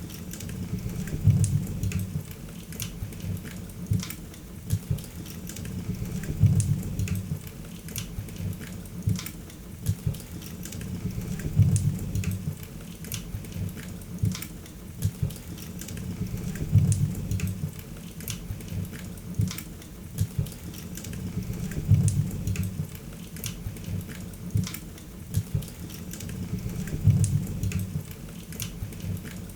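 Wood fire crackling in a fireplace: frequent sharp pops and snaps over a low rumbling flame sound that swells about every five seconds.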